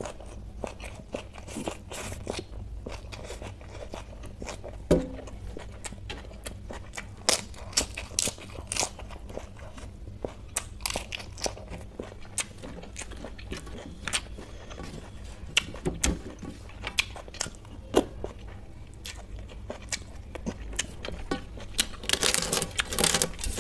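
Close-up eating sounds: crunching and chewing of raw salad greens and fried food, with many sharp wet mouth clicks. Near the end a denser run of crackling and scraping as fingers scoop food off a steel plate.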